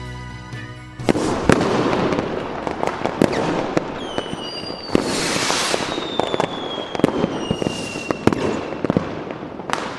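Fireworks display: a dense run of crackling pops and bangs. From about four seconds in come several whistling rockets whose tones slowly fall.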